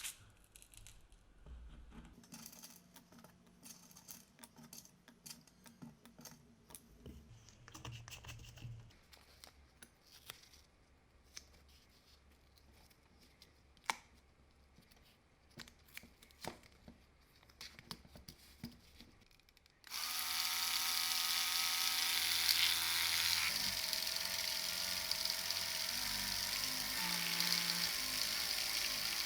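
Small handling clicks and taps of parts and tools, then about twenty seconds in a small electric power tool starts suddenly and runs steadily to the end, its whine wavering slightly as the load changes.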